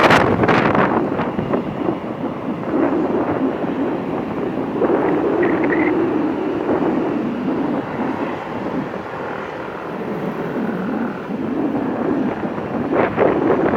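Boeing 777-300ER's GE90 jet engines at takeoff thrust, a loud steady roar. Heavy wind buffets the microphone at the start and again near the end.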